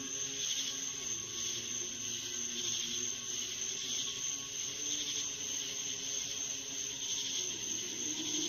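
Steady high-pitched buzz that swells about once a second, like insects, with faint low droning tones underneath, heard in a recording offered as a strange sound in the sky.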